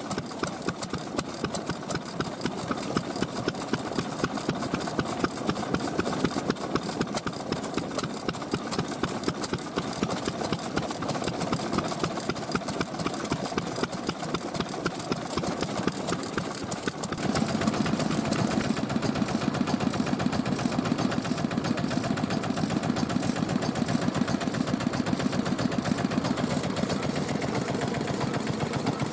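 Vintage stationary engines running with a steady mechanical clatter. The sound grows louder and heavier about seventeen seconds in.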